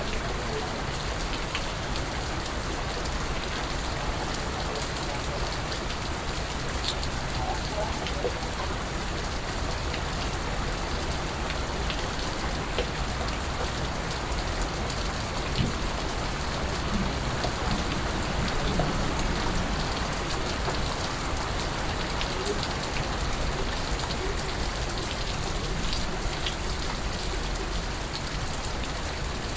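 Steady rain falling, with scattered water drips ticking on a surface.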